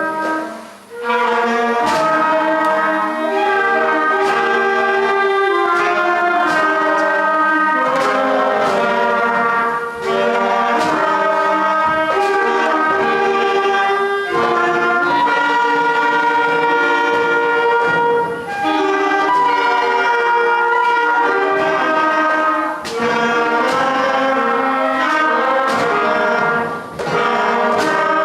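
A primary school concert band playing a piece, with the brass prominent. The music pauses briefly just under a second in, then goes on in phrases with short breaks between them.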